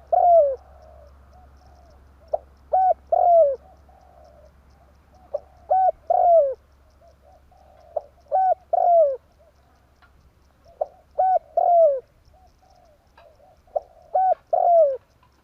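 Spotted dove cooing its repeated phrase about every three seconds, six times in all. Each phrase is a short note, then a quick coo, then a longer coo that falls in pitch, with fainter coos between the phrases.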